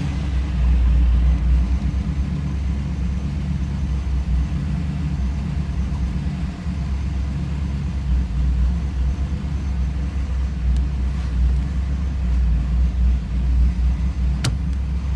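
Pontiac Firebird engine idling steadily just after a cold start, a low even rumble. A single brief click sounds near the end.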